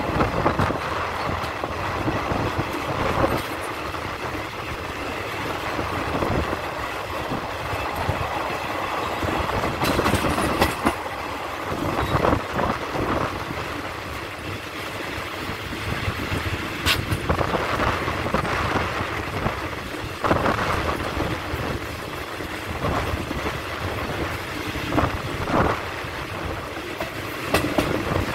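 Passenger coaches of a moving ordinary train running along the track, heard from an open coach window. The steady wheel-and-rail rumble is broken by irregular sharp clatters and knocks every few seconds.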